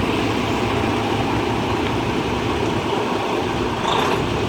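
Semi truck's diesel engine running steadily at low speed as the rig creeps in reverse, heard from inside the cab, under an even rushing hiss.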